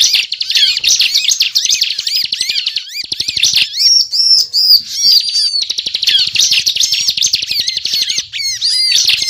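Bar-winged prinia (ciblek) singing a rapid, unbroken chattering song of high chirping notes. About four seconds in the song turns to a short series of separate, higher arched notes.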